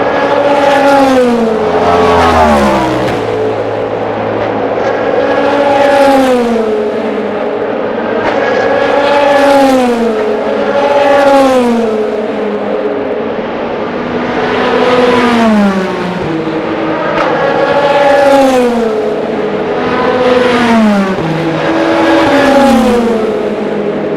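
Endurance race cars passing trackside one after another at speed, about ten pass-bys in a row. Each engine note swells and then drops in pitch as the car goes by.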